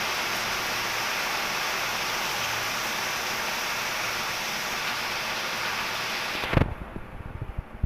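Heavy rain falling as a steady, dense hiss, which cuts off abruptly about six and a half seconds in, followed by a few low thumps.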